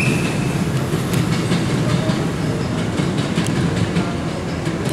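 JR West 221 series electric train running over the station-yard points, a steady low rumble with its wheels clattering over the rail joints and crossings. A brief high-pitched tone sounds right at the start.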